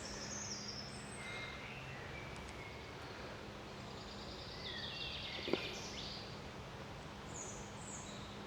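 Songbirds singing, several short high-pitched phrases one after another over steady outdoor background noise, with one sharp click a little after halfway.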